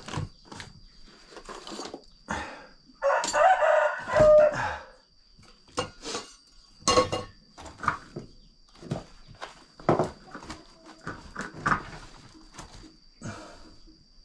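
A rooster crows once, about three seconds in, for about two seconds, amid scattered short clicks and knocks.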